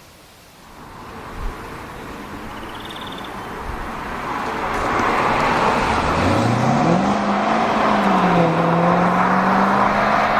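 Corvette C6 Victory Edition's 6.0-litre LS2 V8 growing steadily louder, then the engine note climbing steeply about six seconds in and holding at high revs under acceleration.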